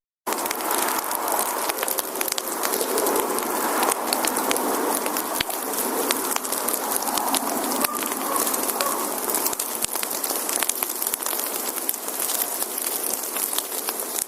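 Firewood burning in a campfire: a steady hiss of flames thick with sharp crackles and pops. It starts abruptly just after a brief silence.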